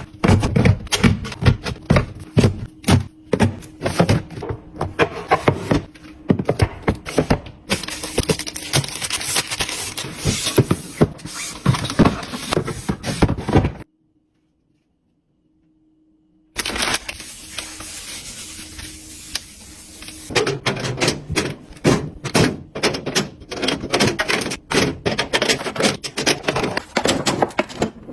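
Kitchen items being handled and set down: rapid, irregular clicks, taps and thunks of containers and objects. The sound drops out completely for a few seconds about halfway through, then a steady hiss runs for several seconds before the tapping and clattering starts again.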